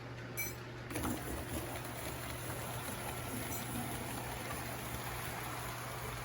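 Model train running along the layout's track: a steady, even rushing noise with a low hum underneath, starting about a second in.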